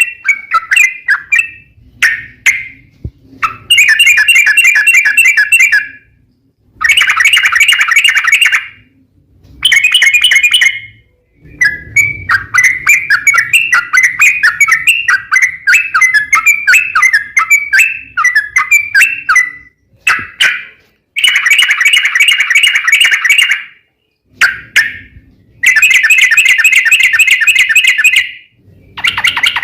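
Yellow-vented bulbul singing loudly in rapid, chattering phrases of about two seconds each, separated by short pauses, with one longer unbroken run of about eight seconds in the middle.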